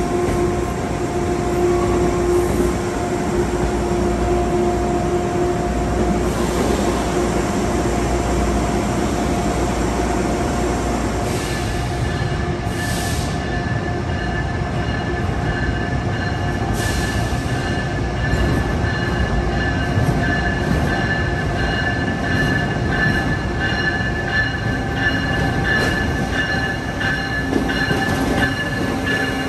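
Passenger train running through a station with a steady rumble and squealing wheels. A higher, steady squeal sets in about a third of the way through, and a few short hissing bursts come in the middle.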